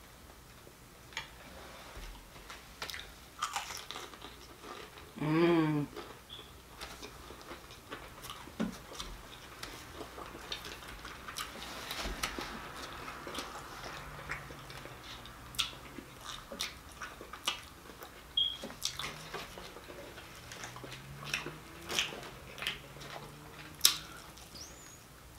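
Mouth sounds of eating crunchy fried fish: chewing with scattered sharp crunches and smacks. About five seconds in there is a short vocal hum, the loudest moment.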